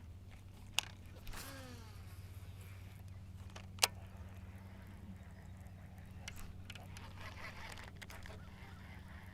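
A goose honks once, about a second in, over a low steady hum, with two sharp clicks, one just before the call and one about four seconds in.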